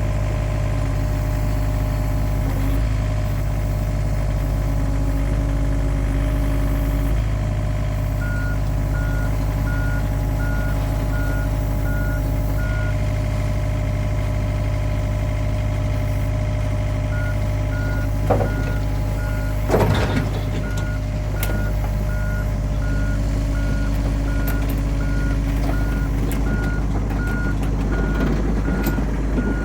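Diesel engine of a new John Deere 50P compact excavator running steadily. Its travel alarm beeps at one pitch about twice a second while the machine tracks, stopping for a few seconds midway and then starting again. Two short clunks come about two-thirds of the way through.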